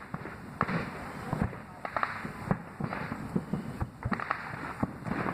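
Fireworks going off: a rapid run of bangs and booms, a few larger ones every second or so, with crackling hiss between them.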